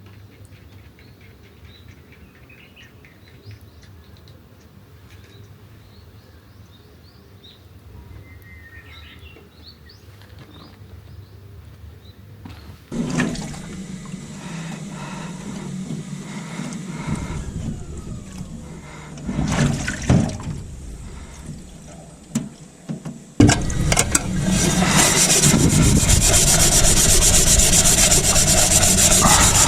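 Faint birds chirping over quiet outdoor background. About halfway through, the sound changes to water running and splashing, which becomes a loud, steady pour near the end.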